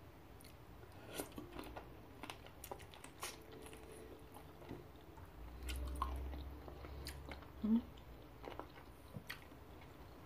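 A person chewing and biting on sauced chicken feet eaten by hand: a string of irregular wet mouth clicks and smacks, with one louder smack near the end.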